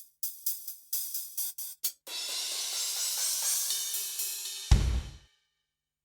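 Kurzweil K2000 synthesizer playing sampled drum sounds: a run of short hi-hat strikes, about four a second, then a cymbal crash that rings for about three seconds. A low drum hit comes near the end, and the sound stops about a second before the end.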